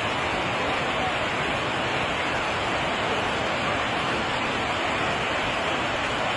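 Floodwater rushing in a steady, unbroken roar of water noise.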